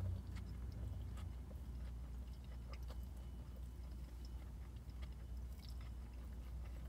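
A person chewing a mouthful of chicken sandwich, faint small clicks of eating.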